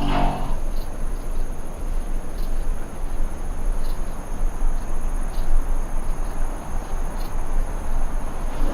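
Crickets chirping in a steady high trill over a low background hum. The tail of a deeper animal call fades out in the first half-second.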